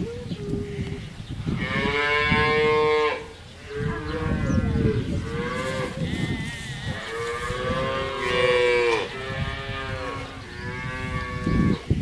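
Cows mooing: about six long calls, one after another.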